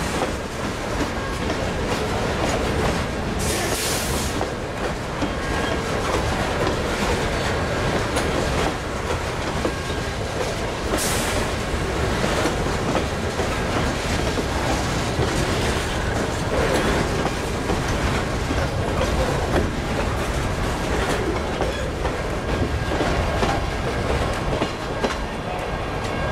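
Southern Railway of British Columbia freight train's boxcars rolling steadily past, wheels clacking over the rail joints with a continuous rumble. Two brief high-pitched noises cut through, about 4 and 11 seconds in.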